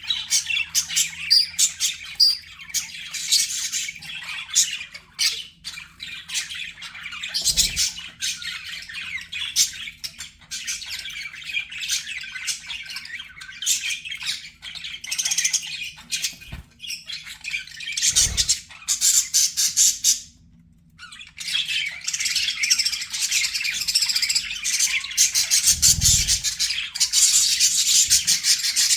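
Budgerigars chattering without pause in fast chirps, warbles and squawks, with a short lull about two-thirds of the way through. A few soft low thumps sound under the chatter.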